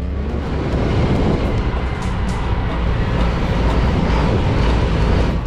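Steady road and wind noise of a moving vehicle: a low rumble under an even rushing hiss, with no distinct events.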